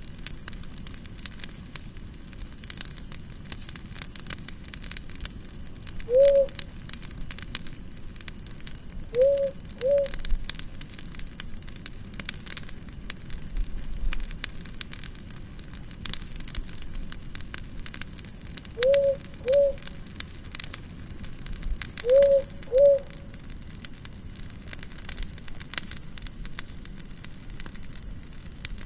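Campfire crackling with scattered small pops, joined a few times by a short high chirping trill like a cricket's. Louder, low, brief arched calls come several times, singly or in pairs.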